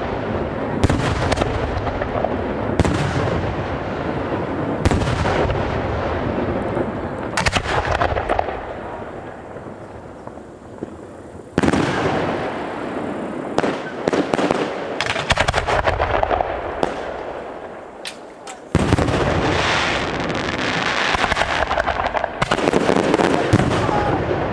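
Fireworks display: a string of aerial shell bursts, each a sharp bang with a long echoing tail. There is a quieter lull around ten seconds in, then a dense run of bangs and crackle from about nineteen seconds on.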